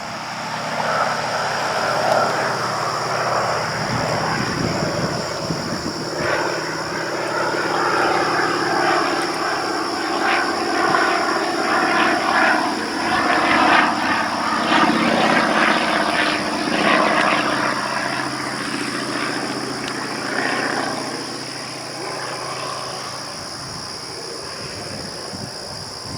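Pitts Model 12 aerobatic biplane's nine-cylinder radial engine and propeller in flight, the engine note rising and falling in pitch and loudness as the plane manoeuvres, fading somewhat near the end.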